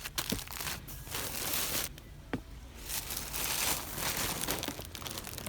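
Rustling and crinkling of something being handled, in irregular bursts with a few sharp clicks.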